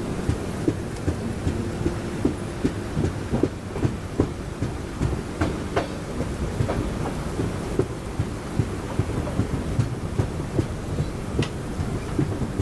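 LHB passenger coach running at speed in heavy rain: a steady low rumble of wheels on rail under the hiss of rain, broken by many sharp, irregular clicks and knocks.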